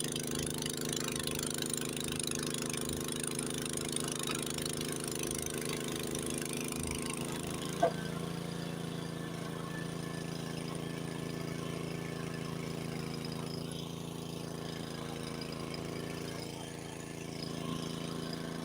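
Honda tracked snowblower engine running steadily under load while cutting through deep snow, with a hiss of thrown snow above it. One short sharp click about eight seconds in, after which the engine note settles a little lower and fuller.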